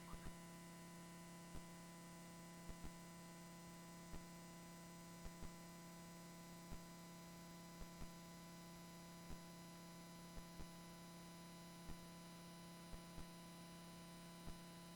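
Near silence: a steady low electrical hum, with faint scattered clicks.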